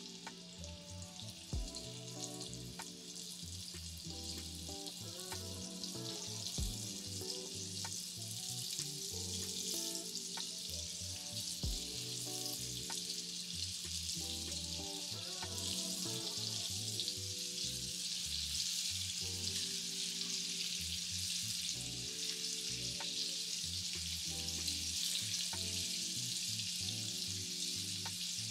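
Flour-coated chicken pieces frying in hot oil in a shallow skillet. The steady sizzle grows gradually louder.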